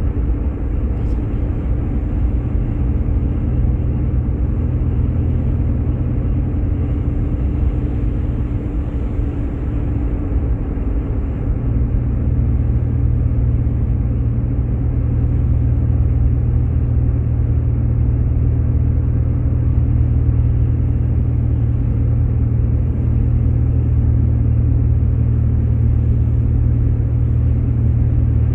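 Steady low drone of a Jeep Grand Cherokee's engine and tyres heard from inside the cabin while driving. About a third of the way in, the low hum grows stronger and slightly louder.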